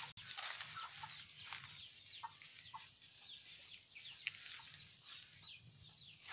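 Birds chirping faintly: many short, downward-sliding chirps repeating irregularly.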